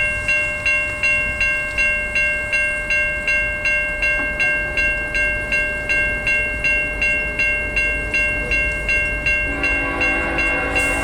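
Railroad grade-crossing bell ringing steadily, about three strikes a second, each strike dying away before the next. Near the end, the approaching Norfolk Southern locomotive's air horn starts to blow under the bell.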